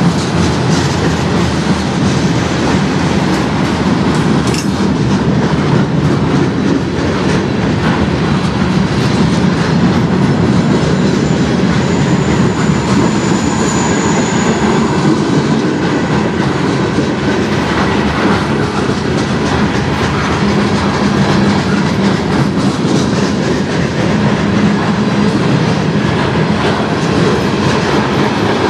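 Mixed freight train's cars rolling past: a loud, steady rumble of steel wheels on the rails with rapid clicking over the joints, and a brief faint high squeal about halfway through.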